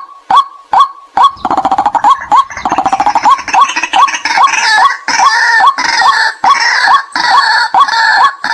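White-breasted waterhen calls: sharp 'kwak' notes repeating about twice a second. A little over a second in they break into a rapid rattling, gurgling chatter, then overlapping calls with a higher second voice join in.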